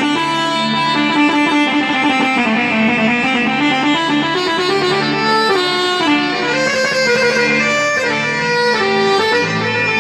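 Instrumental break of live Arabic wedding-band music: a melody stepping from note to note over long held bass notes, between the singer's verses.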